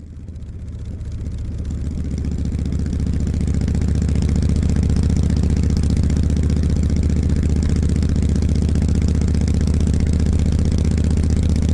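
Harley-Davidson motorcycle's V-twin engine idling steadily with a deep, low, even beat, growing louder over the first few seconds.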